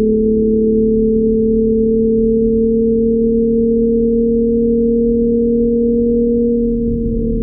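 Nissan Y51 Fuga 250GT's non-turbo V6 exhaust, a steady drone held at an even engine speed. The pitch creeps up slightly and eases off a little near the end. The note is filtered so that only the deep tones remain.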